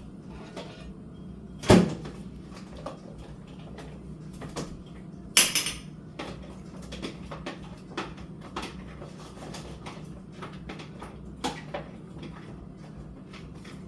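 Kitchen clatter of dishes and utensils being handled: scattered clicks and knocks, a loud knock just before two seconds in, and a brief hissing rustle about five seconds in, over a steady low hum.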